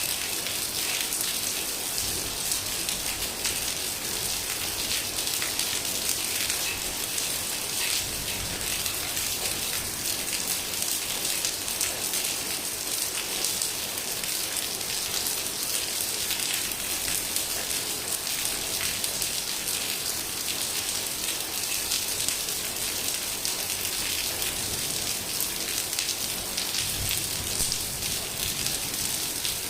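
Heavy rain falling steadily: a dense, even hiss of drops striking surfaces, with fine individual drop ticks throughout.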